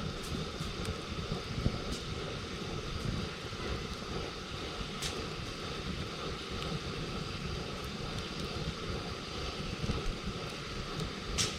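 Wood campfire burning, with scattered sharp crackles and pops, the loudest near the end, over a steady low rumble.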